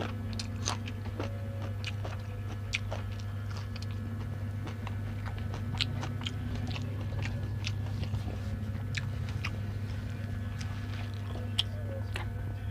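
Close-up eating sounds: a person chewing and biting food, with many small sharp crunches and mouth clicks scattered through, over a steady low hum.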